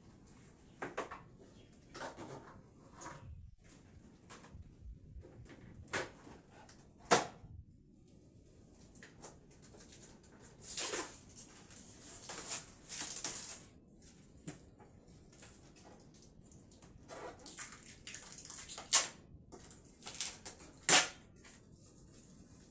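Handling noises: rustling with scattered sharp clicks and knocks, the loudest knocks near the end.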